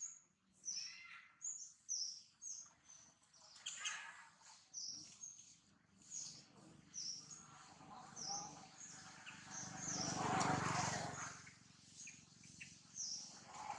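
Small birds chirping over and over in quick, short, high notes that slide downward. A louder rushing noise swells and fades about ten seconds in.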